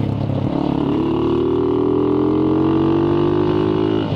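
Motorcycle engine pulling under acceleration, its drone climbing slowly in pitch as the revs build in one gear, then dropping suddenly near the end at a gear change.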